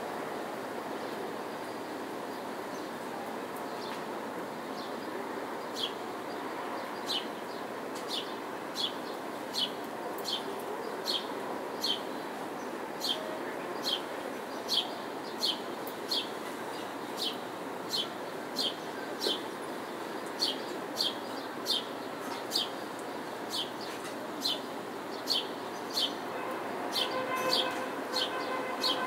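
A small bird repeating a short, falling chirp about once or twice a second, starting a few seconds in, over the steady distant hum of the city. A pitched sound joins near the end.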